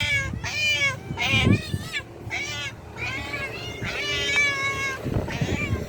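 Domestic cat meowing over and over, about half a dozen short meows in quick succession, each rising and falling in pitch.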